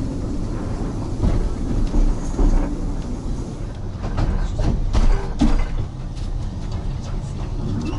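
Narrow-gauge train running on the rails: a steady low rumble with clicks and knocks from the wheels and carriage, more of them in the second half.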